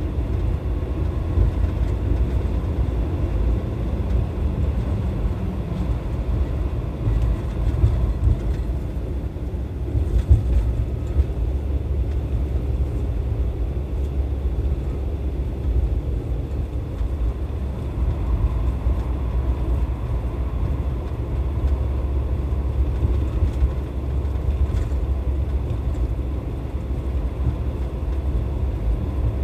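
Non-turbo Suzuki Wagon R kei car's 660 cc three-cylinder engine running under way, a steady engine and road rumble.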